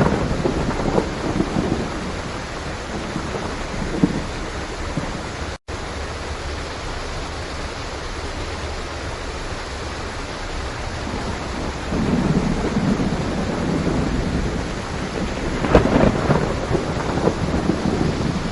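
Steady heavy rain with rolling thunder, the rumble swelling up strongly about two-thirds of the way through. The sound cuts out for an instant about a third of the way in.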